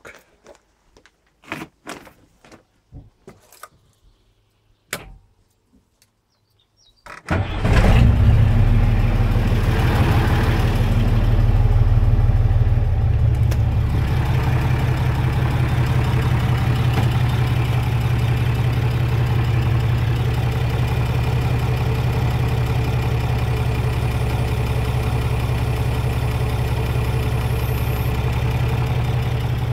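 A few knocks and clicks, then about seven seconds in a crane truck's engine starts and settles into a steady run.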